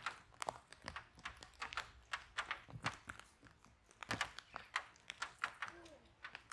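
Wood fire burning in a fireplace, crackling with irregular sharp snaps and pops, several a second.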